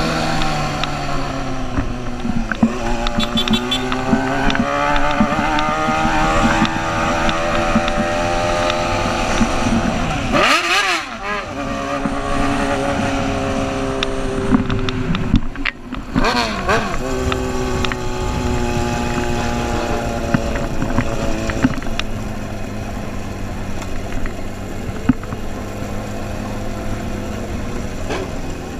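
Motorcycle engine running under load, its pitch rising and falling as the rider works the throttle, with two brief throttle cuts near the middle after which it picks up again.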